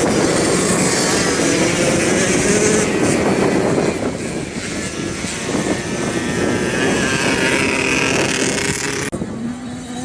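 Motocross bikes' engines running and revving, their pitch rising and falling, with wind hiss on the microphone that cuts off abruptly near the end.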